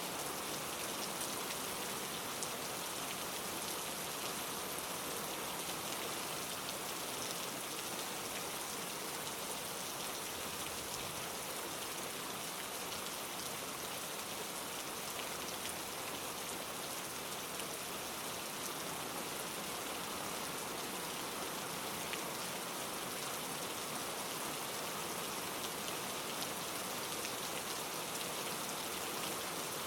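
Steady rain falling, a constant even hiss of many small drops pattering on surfaces, with no change in intensity.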